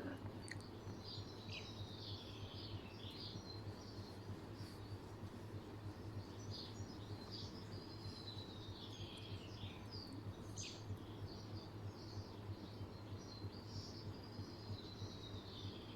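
Birds chirping and singing, with short calls and falling trills repeating throughout, over a steady low hum.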